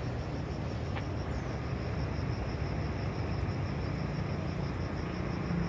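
Truck engine running steadily, a low rumble without change.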